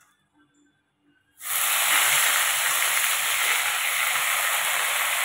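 Hot oil sizzling with a loud, steady hiss as mustard greens are dropped into a kadhai; it starts suddenly about a second and a half in, after near silence.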